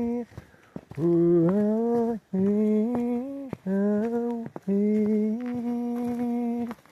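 A single voice humming a slow melody in long held notes, about five in a row separated by short breaks, some sliding up into pitch as they begin.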